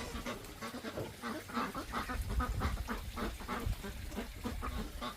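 Domestic waterfowl, ducks or geese, giving a long run of short, rapid calls over a low rumble.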